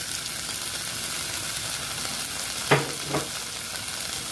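Beef strips and chopped onion sizzling steadily in a pot, frying only in the fat the meat has released. Two short sounds break in a little under three seconds in.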